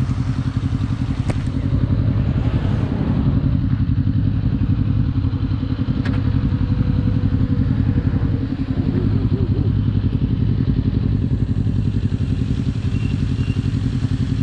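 Kawasaki Z250's parallel-twin engine running through a SeaPro aftermarket muffler, held at steady revs while cruising.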